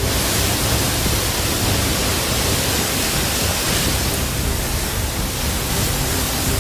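Floodwater rushing through a street: a loud, steady rushing noise that begins suddenly and holds without break.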